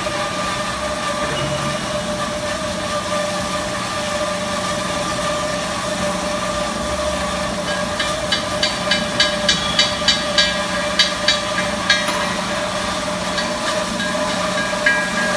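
Sunrise TBS1250 CNC band sawing machine running with a steady mechanical hum and whine. About halfway through, a run of sharp metallic ticks comes at roughly three a second for a few seconds, and a few more come near the end.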